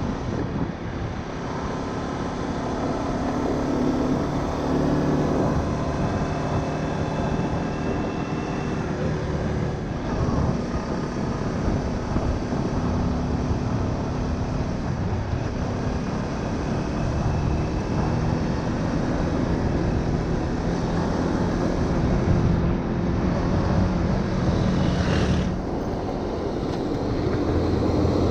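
Honda Winner 150 single-cylinder four-stroke motorbike engine running at cruising speed on the road, its pitch drifting slightly as the throttle changes, under a heavy low rumble of wind on the microphone.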